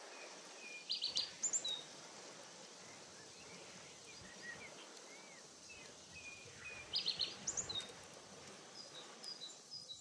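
Small birds chirping over steady outdoor background noise: two quick bursts of high chirps, about a second in and again around seven seconds in, with scattered single short calls between them.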